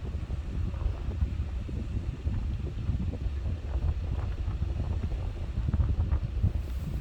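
Wind buffeting the microphone, a gusty low rumble that rises and falls in strength.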